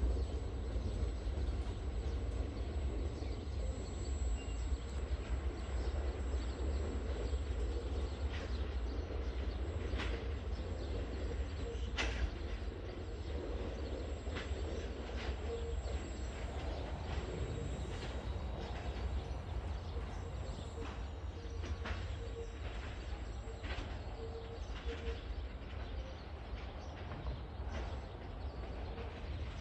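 Ballast train rolling away at a distance: a steady low rumble with scattered sharp clanks and clicks from the wagons, the loudest about twelve seconds in.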